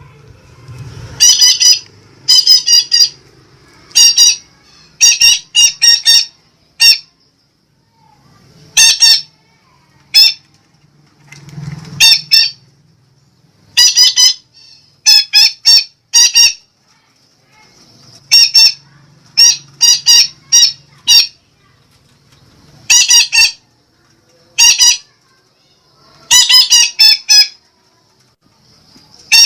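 Sumatran betet parakeet giving loud, harsh squawking calls in quick runs of two to four, repeated every second or two.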